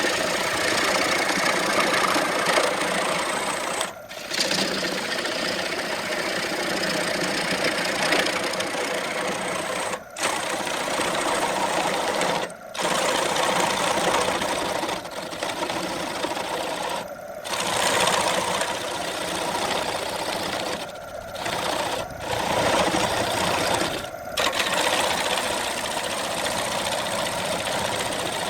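Electric wood lathe running steadily while a redwood workpiece spins and is worked, a continuous machine noise that briefly drops out several times.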